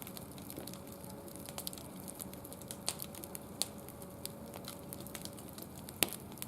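Wood fire burning in a barbecue grill, crackling with irregular sharp pops, the loudest right at the start and about six seconds in.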